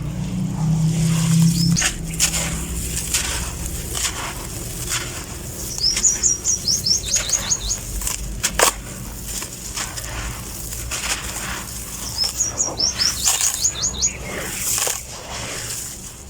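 Grainy cement-sand shapes crunching and crumbling, with scattered sharp cracks. A bird sings two quick runs of short falling chirps, about six seconds in and again about twelve seconds in.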